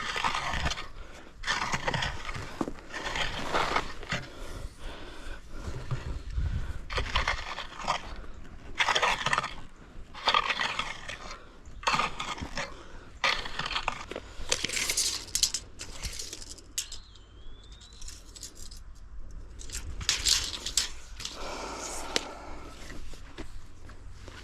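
Crushed stone crunching and scraping in repeated strokes, roughly one every second or so, as from a shovel working stone by hand around the leach field pipe. Underneath is a low steady hum.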